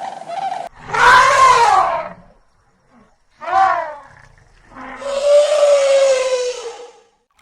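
An animal calling three times: a long call about a second in, a short one in the middle, and a long, slightly falling call near the end.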